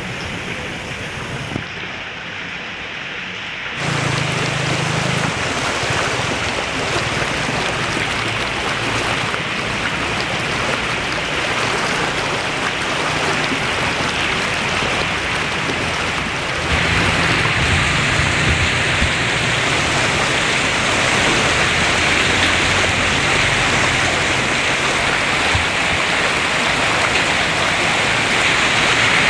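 Heavy rain pouring down in a dense, steady hiss. It gets louder about four seconds in and again a little past halfway.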